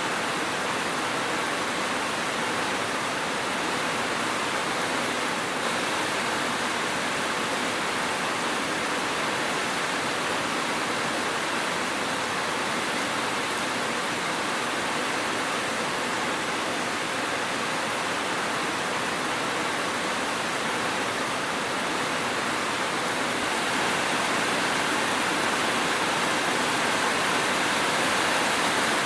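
Steady rain, an even hiss with no thunder, growing a little louder near the end.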